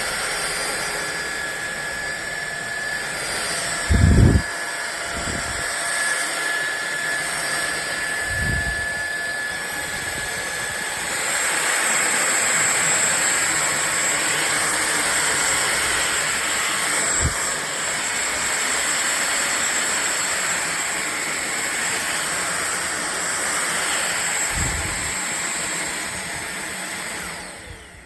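Fieety cordless stick vacuum cleaner running with a steady rushing hiss and high motor whine. It grows louder about eleven seconds in, with a few dull knocks along the way, and shuts off near the end.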